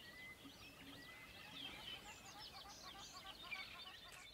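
Faint chirping of small birds, many short, high calls over otherwise near-silent room tone.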